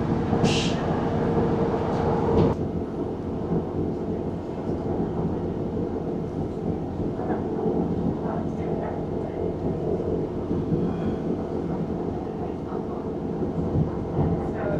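Northern Trains Class 150 diesel multiple unit running along the line, heard from inside the carriage: a steady rumble of wheels on the track and the underfloor diesel engine. A short hiss comes about half a second in, and the noise drops a little after a couple of seconds.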